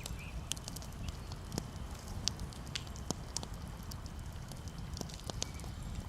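Campfire crackling, with sharp irregular pops and snaps over a steady low rumble.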